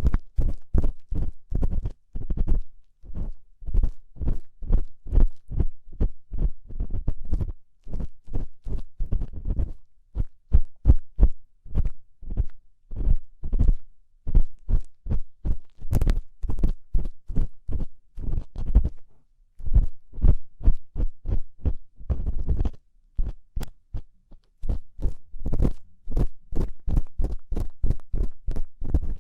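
Ear pick scraping inside a binaural microphone's ear in short strokes, a few a second, with brief pauses between runs; the strokes come out as close, dull scratches with a heavy low thump.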